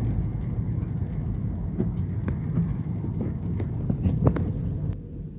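Low, steady rumble of a car on the move, heard from inside, with scattered light taps over it.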